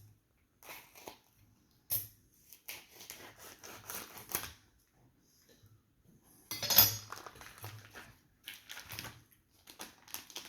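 Hands handling raw bacon and kitchen utensils at a counter: irregular rustling and light clatter, loudest about six and a half seconds in.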